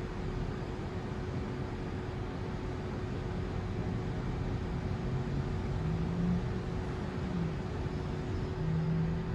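A Lexus RX300 power antenna motor running with a steady whine as it drives the new toothed cable to raise the mast, over a low rumble.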